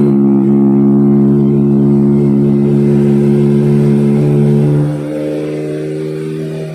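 Kawasaki ZX-25RR's inline-four engine running through an Akrapovic exhaust, held at a steady raised rev. About five seconds in it eases off and becomes quieter.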